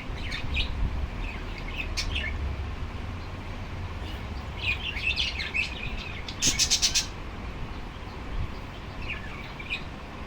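Small birds chirping in short scattered calls, with a quick burst of rapid, sharp notes about two-thirds of the way through, over a low rumble.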